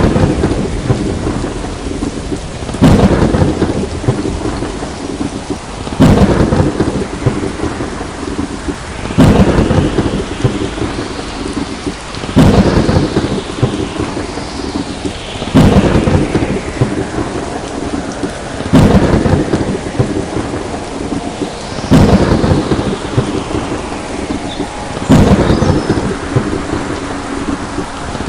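Thunderstorm: steady heavy rain with claps of thunder at even intervals of about three seconds, each a sudden crack that rumbles and fades before the next.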